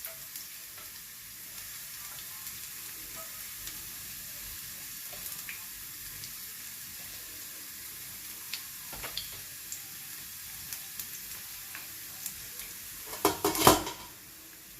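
Chopped garlic sizzling in hot oil in a frying pan as it browns, with scattered light clicks. Near the end, a short burst of loud knocks and scrapes of a utensil against the pan.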